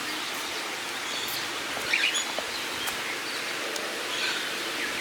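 Outdoor background hiss with a few short, scattered bird chirps; the clearest come about two seconds in.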